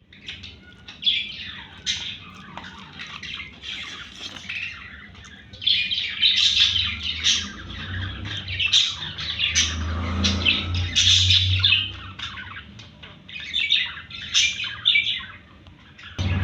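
Several small pet parrots chirping and squawking in quick, overlapping calls, busiest from about five seconds in. A low rumble sits underneath for a few seconds in the middle.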